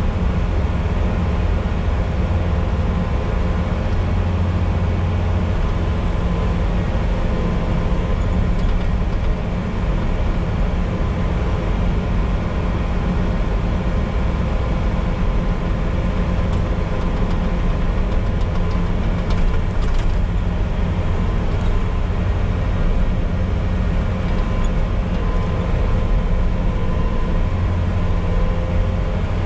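Diesel engine of a Bobcat T595 compact track loader running steadily at working speed.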